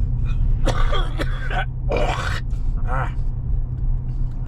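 Chevrolet Silverado pickup running with a steady low drone from its engine and exhaust, while a man makes a few short muttered, wordless vocal sounds.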